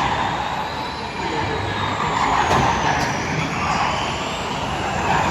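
Racing vehicles passing on a circuit, with a high whine that slides up and down in pitch as they go by.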